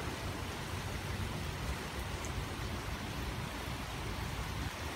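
Heavy rain falling steadily on a paved street, driveways and a lawn: an even, unbroken hiss.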